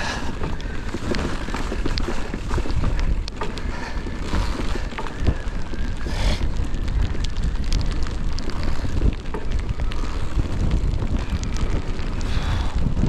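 Wind buffeting a GoPro action camera's microphone during a mountain bike descent, a steady low rumble. Frequent short clicks and rattles come from the bike on a rough trail.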